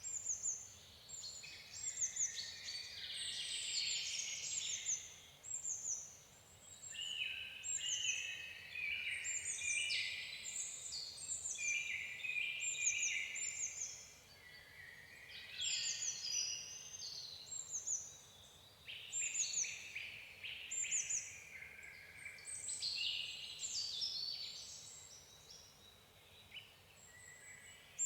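Songbirds singing: many quick, high, falling chirps in overlapping phrases, with a few short lulls.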